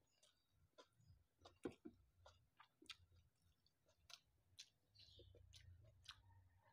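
Faint close-up chewing and wet mouth clicks of a person eating, in quick, irregular snaps.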